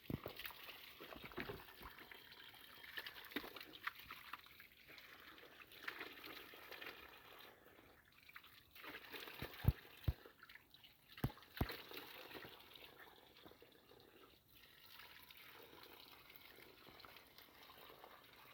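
Faint trickling and splashing of water in a small stream, with a few sharp clicks about ten seconds in.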